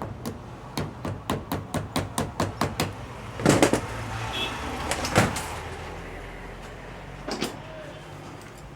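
A quick, even run of about a dozen sharp metal clicks, about five a second, then a few louder separate metallic clanks: a steel boot clamp on a car's inner CV joint being tightened and locked with pliers.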